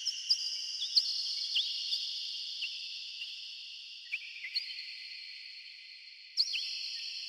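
Birds chirping with short, quick downward notes, each one trailing off into a long ringing echo that lingers and slowly fades. A louder burst of chirps about six seconds in sets the echo ringing again.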